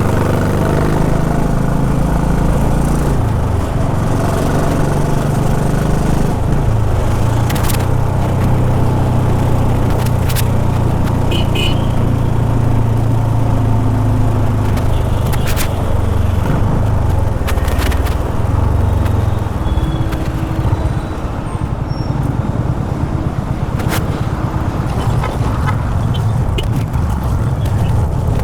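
Honda H'ness CB350's air-cooled single-cylinder engine running on the move, its note rising and falling with the throttle, then dropping to a lower, uneven beat about two-thirds of the way through as the bike slows. A few short sharp clicks sound over it.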